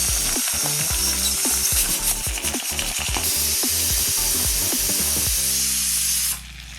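Onions sizzling in hot oil in a clay pot as they are stirred. The sizzle cuts off abruptly near the end.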